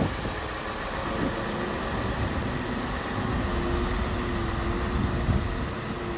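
Diesel engine of heavy earthmoving machinery running steadily, with a low rumble and a faint steady whine from about a second in.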